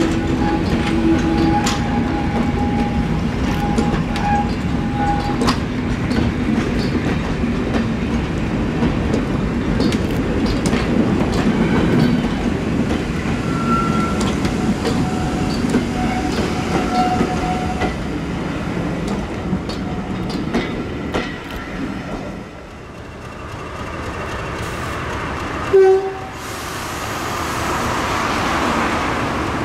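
A heritage diesel train running on the track, with steady engine and rail noise that falls away about 22 seconds in. A short, loud horn blast sounds about 26 seconds in, and train noise builds again after it.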